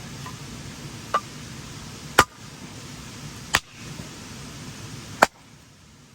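Firewood being split: four sharp strikes of a blade into a log, a second or so apart, the second and last the loudest.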